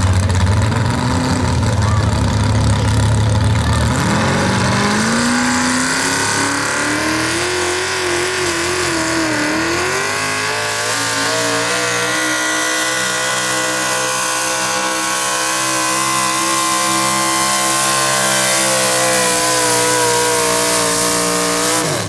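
Small-block V8 engine of a modified 4x4 pulling truck, running low for a few seconds, then revving up and holding at high revs under load down the track, with a brief dip in pitch partway through. The revs drop sharply at the end.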